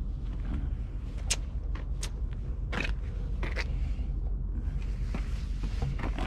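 Low, steady engine rumble of a truck idling, with a few short sharp clicks and knocks over it.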